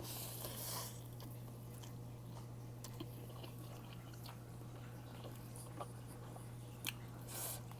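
A person eating spicy ramen noodles: quiet mouth and chewing sounds, with a short noisy patch about the first second and a few small clicks after.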